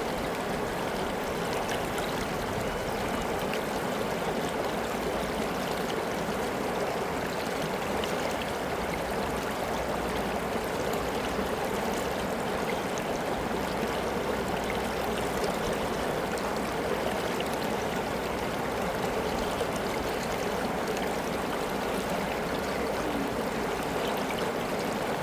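River water flowing and babbling over rocks, a steady rushing with no change.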